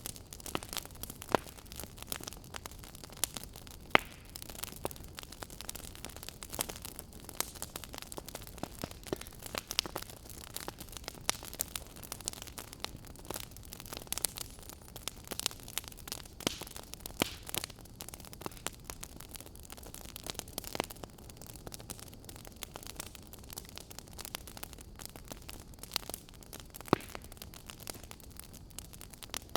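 Wood fire crackling in a fireplace: irregular sharp pops and snaps over a soft steady hiss, with a few louder pops, one about four seconds in and another near the end.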